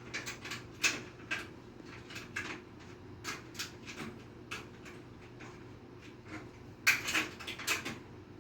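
Irregular light clicks and clinks of tools and metal fittings being handled during a water heater installation, with a denser, louder cluster near the end.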